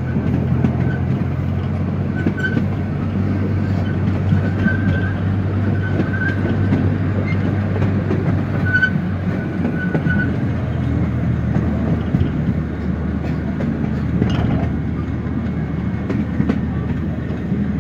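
Small narrow-gauge zoo train riding along the track, heard from its rear car: a steady rumble and low drone, with the wheels clicking over the rails. A faint high squeal comes and goes during the first half.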